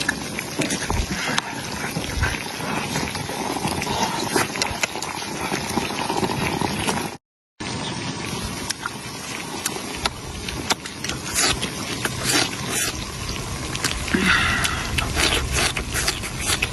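Guizhou baojiang small tofu sizzling and crackling as it cooks in hot oil, a steady dense crackle, broken by a brief silent gap about seven seconds in.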